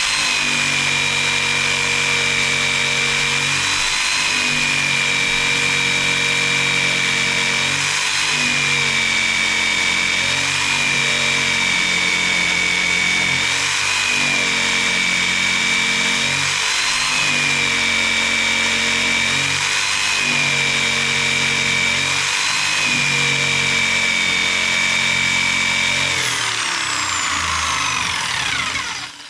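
Electric jigsaw cutting through a thick wooden beam, its motor whine dipping in pitch briefly every few seconds as the blade labours in the hard-going cut. Near the end it is switched off and winds down, falling in pitch until it stops, rested so it won't overheat.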